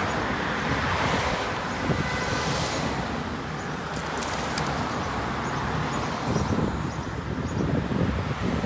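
Road traffic passing, with wind on the microphone, a steady rushing noise with a few brief clicks about four seconds in.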